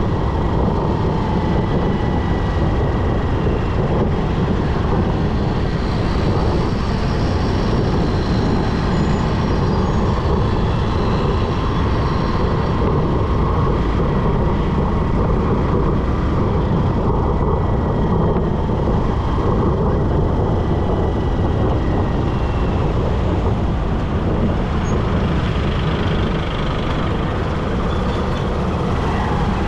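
Steady road and wind noise from a motorbike riding through city traffic, heaviest in the low end, with other vehicles passing.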